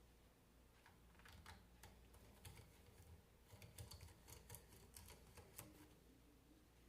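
Faint, irregular light clicks and taps of hand work on small parts, bunched from about a second in until near the end, against near silence.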